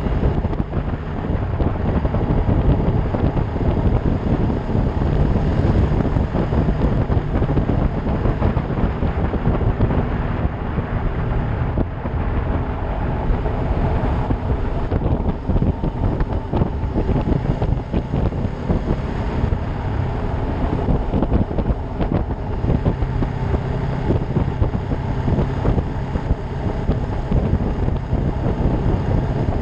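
Ducati Monster 620's air-cooled L-twin engine running steadily while riding, largely buried under heavy wind rumble on the microphone.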